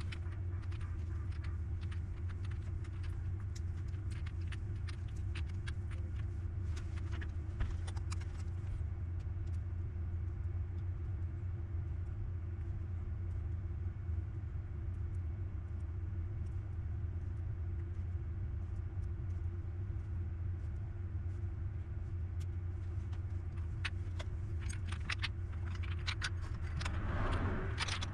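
A steady low hum, with scattered small clicks and taps in the first several seconds and again near the end.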